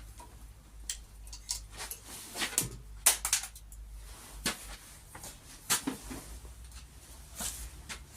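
Scattered sharp clicks and knocks of sheet metal and tools being handled, irregular, with a few louder strikes, over a low steady hum.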